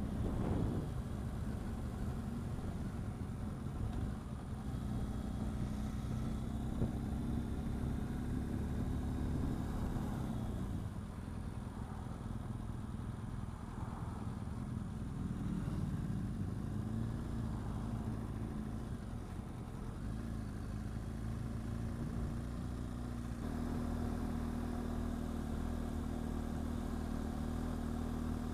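BMW R1200GS boxer-twin motorcycle engine running at low road speed, with wind and road noise from the moving bike. The engine note eases about ten seconds in and settles into a steady, higher tone later on.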